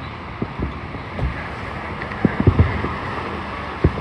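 Fireworks going off as a string of short low booms, several close together about two and a half seconds in and another near the end, over a steady background rush.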